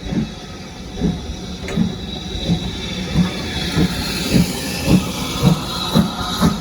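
Steam locomotive working hard as it pulls away: regular exhaust beats over a steady hiss, quickening from about one a second to about two a second as the engine gathers speed.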